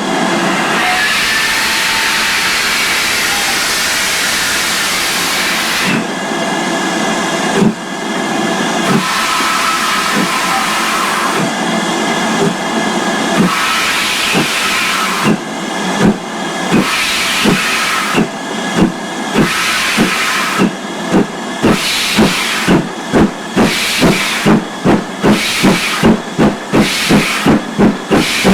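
2-8-0 tank steam locomotive No. 4277 starting away: a loud hiss of escaping steam, then exhaust beats that quicken steadily as it gathers speed.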